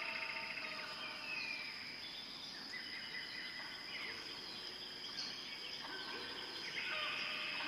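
Natural ambience of several small birds chirping and calling, with quick trills and short whistles, over a steady high-pitched insect-like tone.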